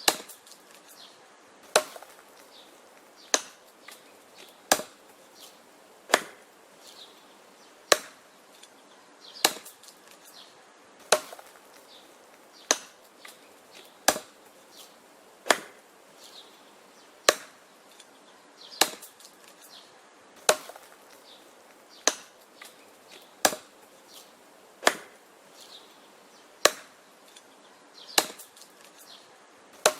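Wood being chopped: a steady series of sharp, hard strikes, about one every second and a half, with faint small knocks between strikes.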